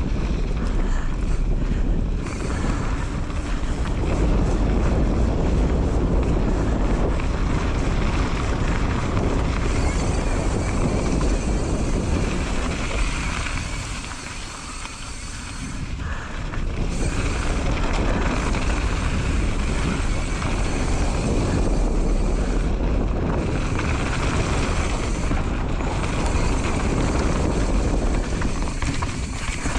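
Wind rushing over the camera's microphone and the rumble of a mountain bike riding downhill on a wet trail. It eases for a moment about halfway through, then picks up again.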